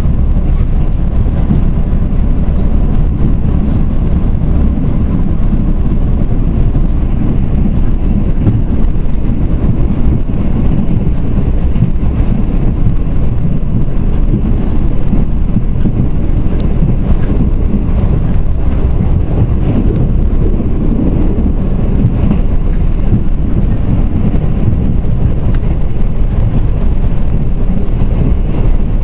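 Mugunghwa passenger train running on the rails, heard from aboard: a steady, loud low rumble of the wheels and carriage, with faint clicks over it.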